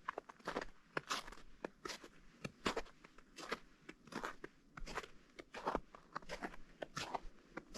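Footsteps crunching on partially melted spring snow, a steady walking pace of about two steps a second.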